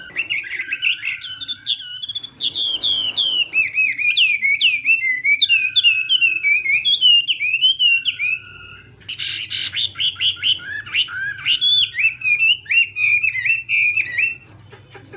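Chinese hwamei (hoạ mi) singing loudly: a fast, varied run of slurred whistled notes, broken off for a moment about nine seconds in before a second run, which stops about a second before the end.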